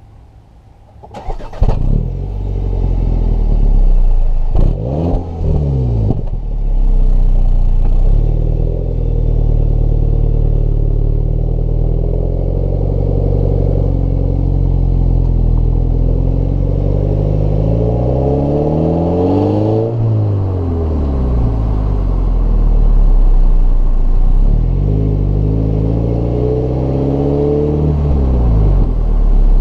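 2015 MINI Cooper S's turbocharged four-cylinder engine and exhaust: it starts up about a second in, then idles and is revved three times. The first rev is quick, the second is a slow climb and fall, and the third is held briefly before dropping back to idle.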